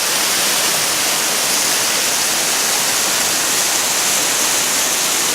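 Waterfall pouring, heard from right behind the falling water: a loud, steady rush with a hiss strongest in the upper range.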